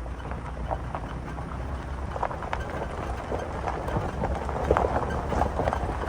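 Footsteps on rough, stony ground: a run of irregular crunching steps that grows louder, over a steady low rumble.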